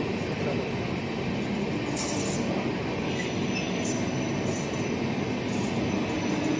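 Passenger train running steadily through a station, its wheels rumbling on the rails, heard from aboard the moving train.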